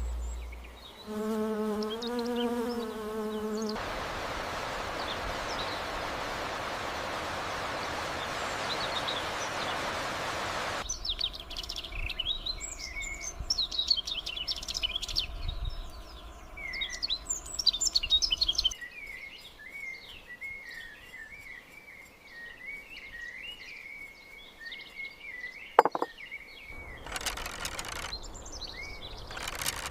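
Small birds chirping and twittering, with a long warbling song phrase in the second half. Before that come a short wavering animal call and several seconds of steady rushing noise.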